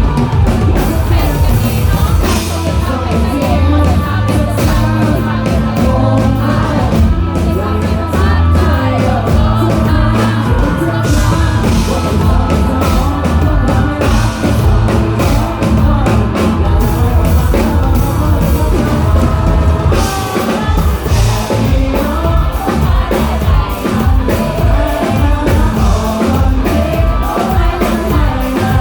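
A live rock band playing a song with sung vocals, drums and heavy bass, loud and unbroken.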